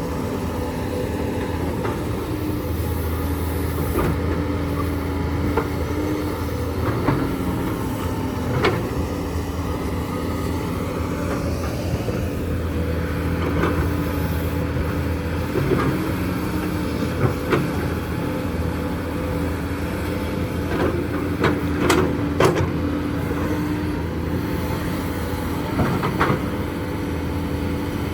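Hydraulic excavator's diesel engine running steadily under load while it digs limestone, with scattered sharp clanks and knocks of the bucket and rock, clustered a few seconds in and again past the middle.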